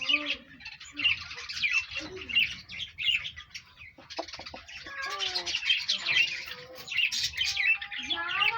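Many small birds chirping at once in a dense, continuous chatter, with a few lower gliding calls about five seconds in and again near the end.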